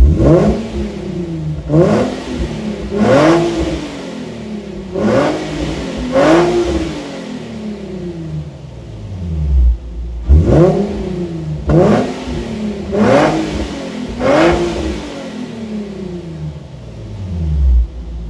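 Nissan Fairlady Z Z33's 3.5-litre VQ35HR V6 revved in quick blips through a Central 20 Z Sport aftermarket rear muffler, with stock intake, exhaust manifolds and Y-pipe. Nine sharp rises in revs each fall back toward idle: five in a row, a short spell at idle, then four more, before it settles back to idle near the end.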